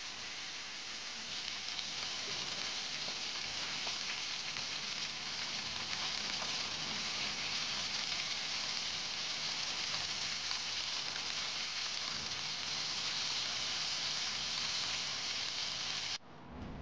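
Chicken pieces sizzling as they pan-fry in hot oil: a steady hiss with faint crackles, cutting off abruptly near the end.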